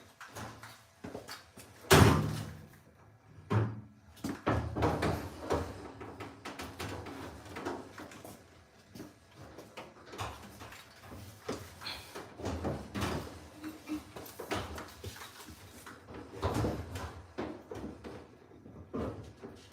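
Irregular knocks, clatter and scraping of hard objects being handled, with one loud bang about two seconds in.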